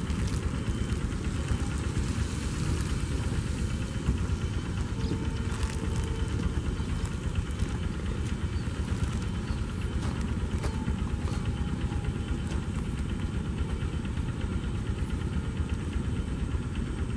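Comprehensive inspection train for high-speed rail rolling slowly past close by: a steady low rumble with scattered clicks.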